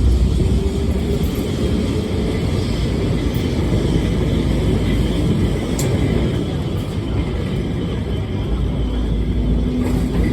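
Lisbon Tram 28 running along its line: a steady low rumble of motor and wheels on the rails, with one sharp click about six seconds in.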